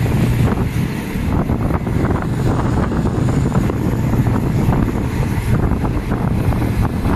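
Passenger train running along the track, heard from an open carriage window: a steady low rumble of wheels on rail with irregular clattering, and wind buffeting the microphone.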